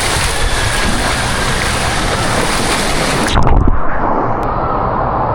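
Steady rushing-water din of an indoor water park. About three and a half seconds in there is a thump, and the sound abruptly turns duller.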